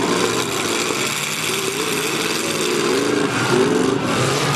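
Demolition derby car engines running and revving, their pitch rising and falling, with several engines overlapping near the end.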